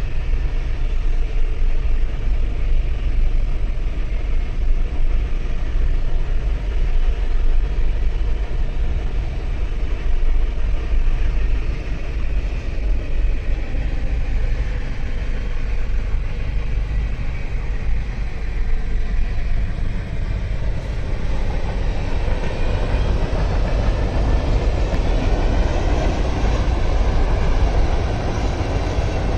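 Union Pacific manifest freight train of autoracks and mixed cars rolling past: a steady, dense rolling noise of wheels on rail. The sound grows fuller and brighter about two-thirds of the way through.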